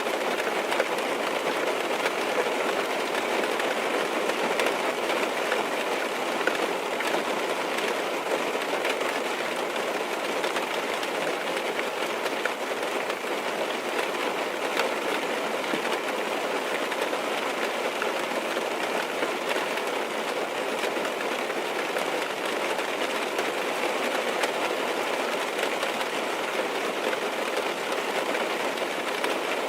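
Steady rain falling on a car's roof and windows, heard from inside the cabin: an even hiss dense with tiny drop ticks.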